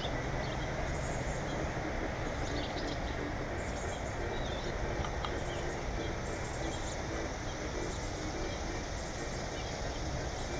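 Small birds chirping briefly and repeatedly over a steady background rumble.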